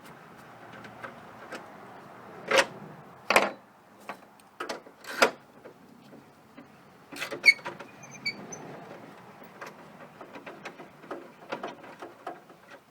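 Hand tools and the plastic headlamp assembly of a GMC pickup clicking and knocking as the headlamp is unbolted and worked loose. A few sharp knocks come in the first half and a sharp click about halfway through, with lighter clicks and rattles between.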